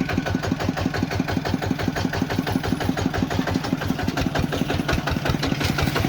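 Small tractor's engine running steadily at idle, with an even chugging beat.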